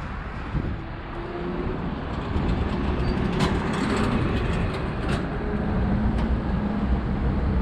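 Heavy road traffic: a large diesel vehicle's engine running close by with a steady low rumble, growing louder after the first second or two.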